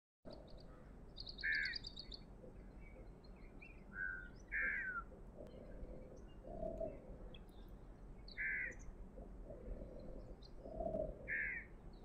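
Several birds calling: a short, sharp call repeated about every three to four seconds, a fast high trill about a second in, and a couple of lower calls in between, over a steady faint background hiss.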